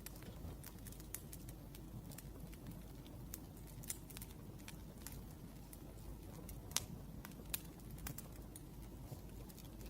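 Wood fire crackling: irregular sharp pops over a low steady rumble, with two louder pops about two-thirds of the way through.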